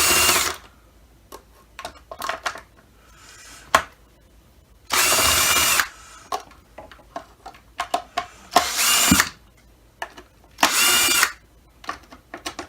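A power screwdriver runs in four short bursts of under a second each, backing screws out of a Dyson DC25's cyclone assembly. Light clicks and handling knocks fall between the bursts.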